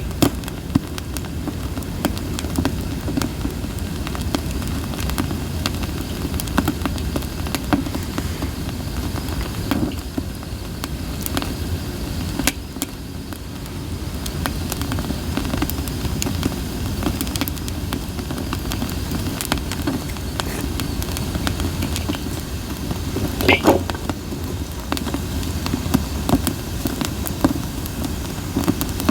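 Wood fire of split sawtooth oak (kunugi) logs burning, with a steady low rumble and frequent sharp crackles and pops. A louder pop comes about 23 seconds in.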